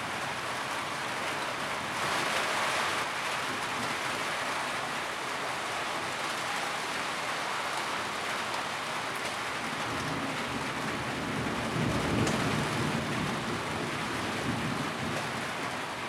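Steady rain falling on a tin roof, a dense even hiss. A low rumble swells briefly about twelve seconds in.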